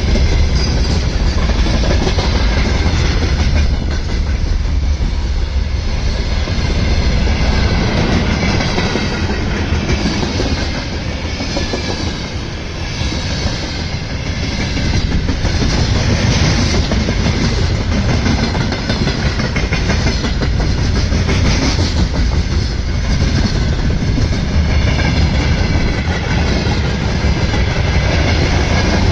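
Freight train rolling past, its wagon wheels clattering over the rail joints in a steady loud rumble that eases slightly about halfway through.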